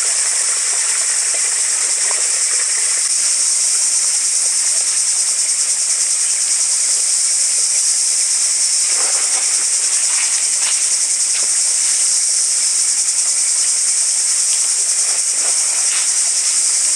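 A steady, high-pitched insect drone, with a few faint clicks or knocks about halfway through and near the end.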